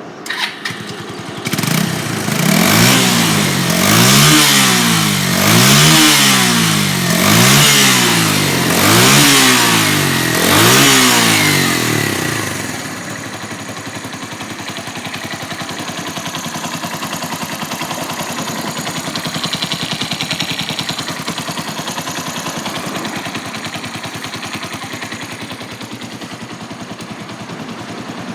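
Suzuki Grasstracker Big Boy's 250 cc single-cylinder four-stroke engine starting. It is revved up and down about six times over the first dozen seconds, then settles to a steady idle.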